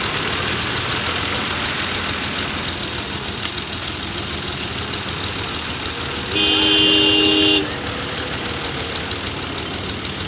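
Ghazi tractor engines running steadily. About six seconds in, a horn sounds once for just over a second, louder than the engines.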